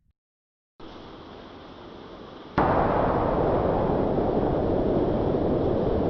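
Wind and sea noise aboard a small boat in rough weather, after a moment of silence: a moderate steady rush at first, then a sudden jump to a loud, steady rushing about two and a half seconds in.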